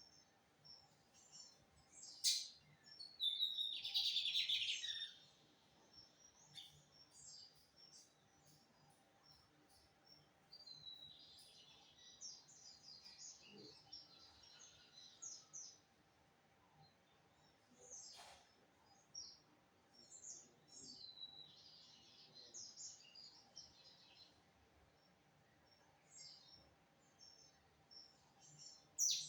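Lined seedeater (bigodinho) singing: bursts of fast, high twittering a few seconds long, separated by pauses, with a few sharp single notes between them.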